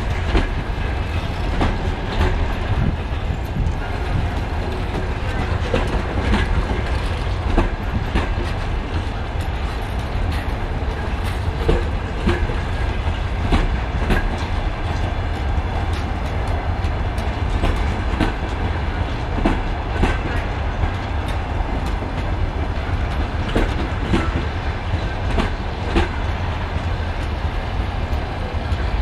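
A long passenger train's coaches rolling past on the track: a steady low rumble with irregular knocks as the wheels click over the rail joints.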